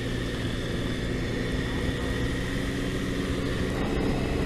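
Triumph Tiger motorcycle engine running at a steady cruise, its drone holding even, under wind and road noise.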